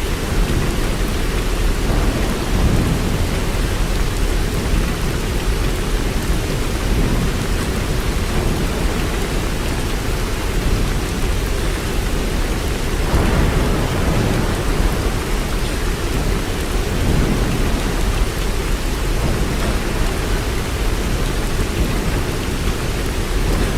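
Steady rain with low rumbling swells underneath, the strongest about thirteen seconds in.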